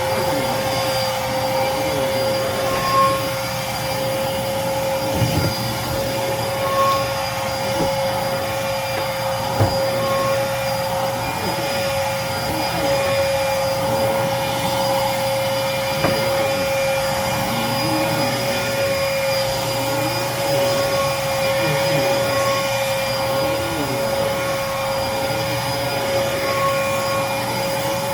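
Dirt Devil Featherlite cyclonic bagless upright vacuum cleaner running steadily, its motor giving a constant whine over a rushing hiss, with a few brief knocks.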